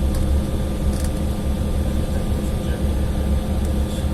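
Steady cabin drone of an Embraer E175 airliner on the ground with its CF34 turbofans running before the takeoff roll: a continuous low rumble under a few steady humming tones.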